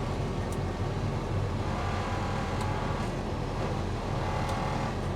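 Cummins diesel engine of a self-propelled sprayer running steadily, heard inside the cab, with a faint higher whine joining about two seconds in.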